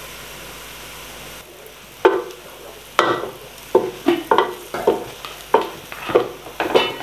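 Chopped onions and coconut powder frying in oil in a metal pot: a steady sizzle at first, then from about two seconds in a wooden spoon scraping and stirring them against the pot, about two strokes a second. The onions are being browned and the coconut powder roasted.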